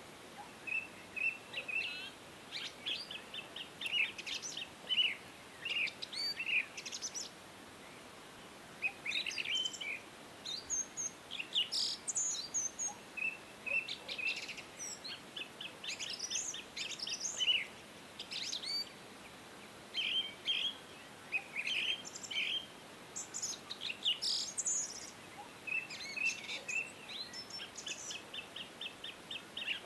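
Small birds chirping and twittering continuously, with many short high calls and quick runs of rapidly repeated chirps.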